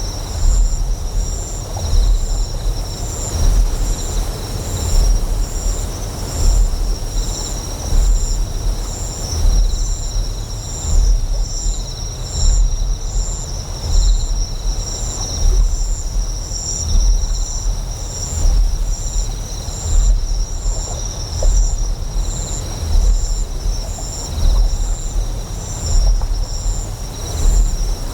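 Designed ambient soundscape of a deep generator hum pulsing about once a second, with a steady haze of flowing water and insects chirping in rapid, even pulses.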